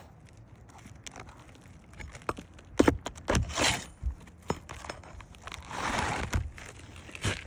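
Roof shingle repair work: scattered knocks and clicks of tools and shingles being handled, with two stretches of scraping and rustling in the middle.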